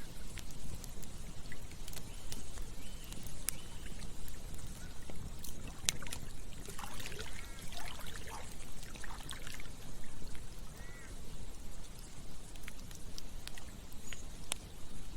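Campfire crackling, with sharp pops scattered through a steady low rushing background. A few short chirps come in around the middle.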